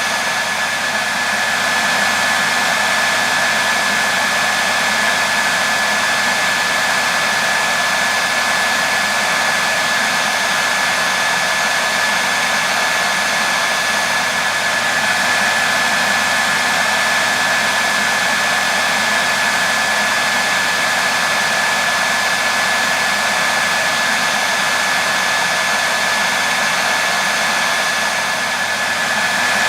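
Hair dryer running continuously, a steady airy rush with a constant high whine from its motor and fan.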